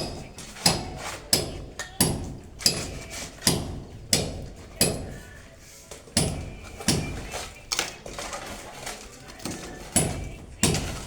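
Steady hammer blows, about three every two seconds, each with a short metallic ring, with a brief slackening about halfway through.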